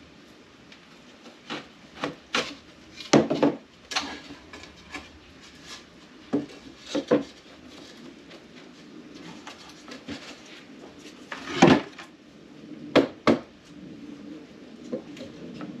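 Pieces of wood being handled and knocked together: irregular knocks and clatters with some scraping and rubbing between them.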